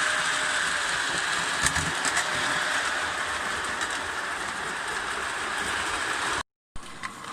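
Hornby O gauge tinplate model locomotive running along its track: a steady whirring hum with a couple of light clicks about two seconds in. The sound cuts off abruptly near the end.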